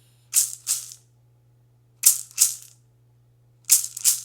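A hand rattle shaken in a slow steady rhythm: two quick shakes, then a pause, three times over, about every second and a half. A steady low hum runs underneath.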